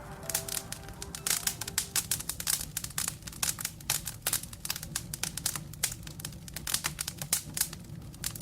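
Wood fire in a fireplace crackling and popping in irregular sharp snaps over a low steady rumble. The last held notes of background music fade out in the first two seconds.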